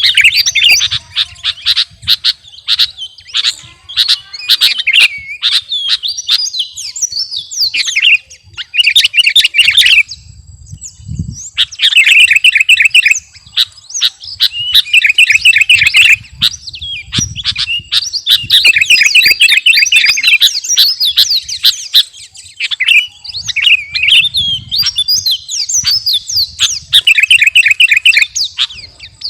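Sooty-headed bulbul (kutilang) singing prolifically in loud, chattering phrases of a second or two with fast trills, almost without a break, pausing briefly about ten seconds in.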